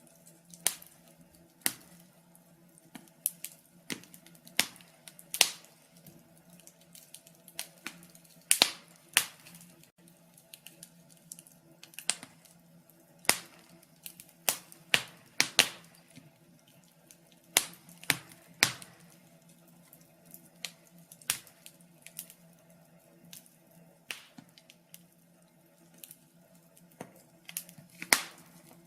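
Wood fire in a fireplace crackling, with sharp pops and snaps coming at irregular intervals, a few of them much louder than the rest. A faint steady low hum runs underneath.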